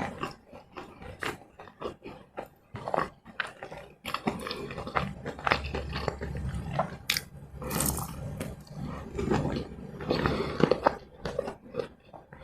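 Close-miked eating sounds: chewing with irregular wet clicks and smacks from the mouth.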